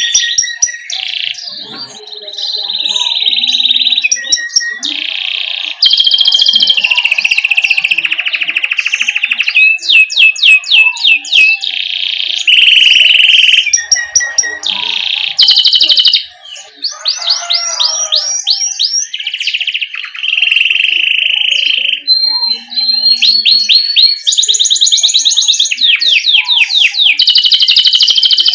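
Domestic canary singing a long, continuous song of high-pitched rolling trills and fast runs of repeated notes, with one short pause about halfway through.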